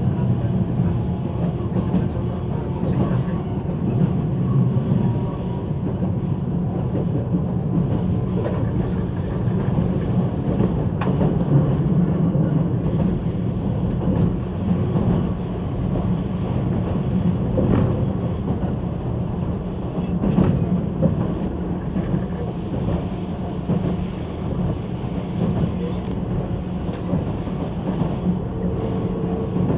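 JR 185 series electric train running at speed, heard from inside the passenger car: a steady low rumble of wheels on rail with a few sharp rail-joint clicks. A steady tone comes in near the end.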